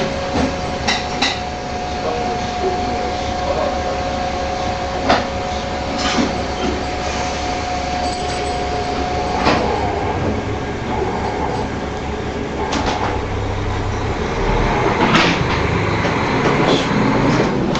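Inside a KiHa 40 diesel railcar: a steady low rumble of the train with scattered knocks and clacks. A steady whine stops about halfway.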